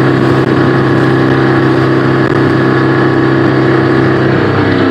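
Motorboat engine running steadily at speed, a level drone with the rush of wind and water over it; its pitch drops slightly near the end.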